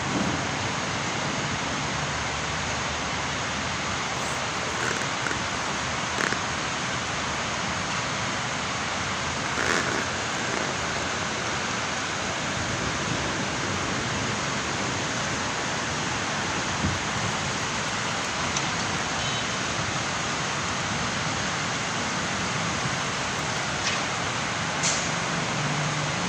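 Heavy rain pouring down in a steady, even hiss, with a few faint brief ticks scattered through it.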